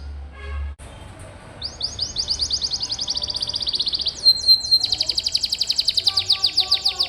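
Domestic canary singing a rolling song of rapid, high trills. The trill breaks off a little under a second in, resumes, and switches to a different trill about four seconds in. A low hum stops abruptly as the trill breaks off.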